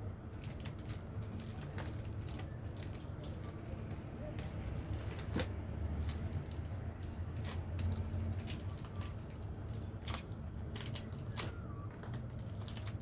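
Irregular small clicks and taps over a steady low hum, typical of small tools and parts being handled on a repair bench.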